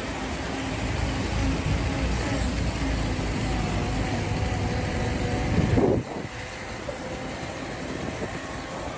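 Motor vehicle engines running in slow traffic, a heavy low rumble with a steady engine note. About six seconds in, the rumble drops suddenly to a quieter, steadier engine sound.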